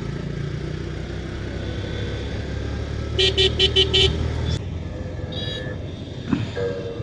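Riding noise of a motorcycle in traffic, a steady low rumble, with a vehicle horn beeping in a quick run of about five short toots some three seconds in. The rumble drops off about a second after the toots, and another faint horn toot follows.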